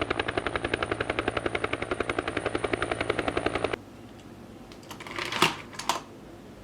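Electronic sound effect from a battery-powered toy vehicle's speaker: a fast, even rattling chatter like a machine gun or rotor that cuts off suddenly about four seconds in. A couple of sharp plastic clicks follow as the toy is handled.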